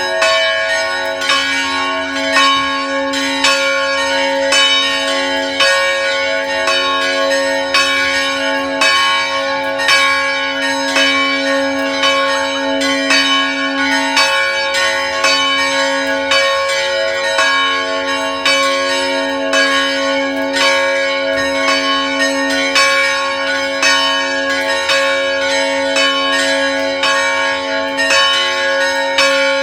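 Church bells ringing: several bells struck one after another in quick, steady succession, their tones ringing on and overlapping.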